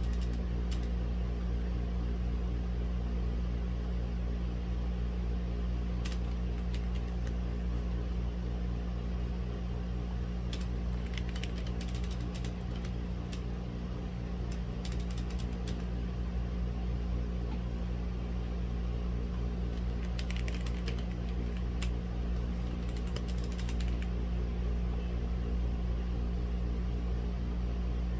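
Womier/Gamakay K87 mechanical keyboard with red linear switches being typed on in short bursts of key clacks, separated by pauses. A steady low hum runs underneath throughout.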